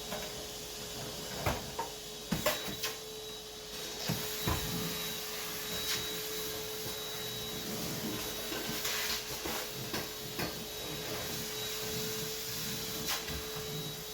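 Vacuum cleaner running steadily with a constant motor hum, with scattered clicks and knocks as it bumps against the kitchen floor and cabinets.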